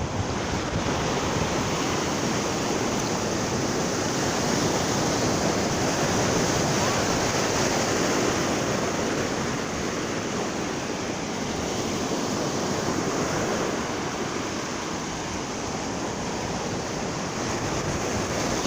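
Ocean surf washing onto the shore, a steady rush that swells and eases slowly.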